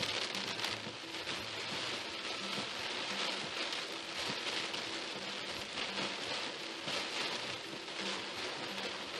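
Heavy rain falling on a moving car's windshield and body, a dense steady hiss.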